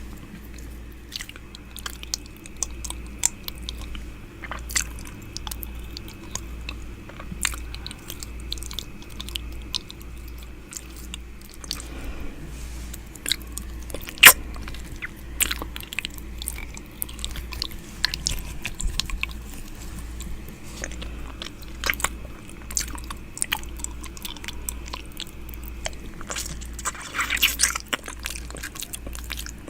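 Close-up ASMR 'ear eating' mouth sounds: irregular wet clicks and smacks from a mouth held right at the microphone, over a low steady hum. There is one sharp, loud click about halfway through and a quick flurry of clicks near the end.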